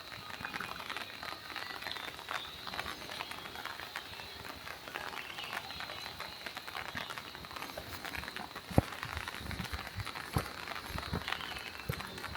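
Steady rain pattering, a dense crackle of small drops, with a faint steady high tone behind it. From about nine seconds in, short low knocks come at irregular intervals, the loudest just before then.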